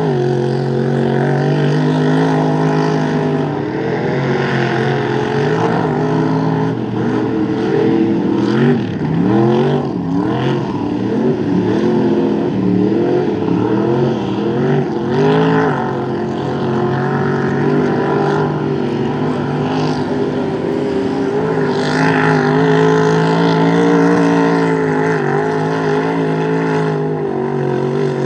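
Mud truck's big engine running hard at high revs, its pitch swinging up and down rapidly for several seconds around the middle as the throttle is worked, steadier before and after.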